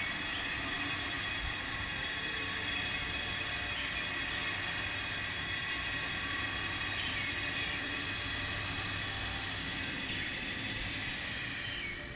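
Power grinder cutting or grinding stone: a steady, high-pitched whine over a harsh hiss, running evenly and cutting off near the end.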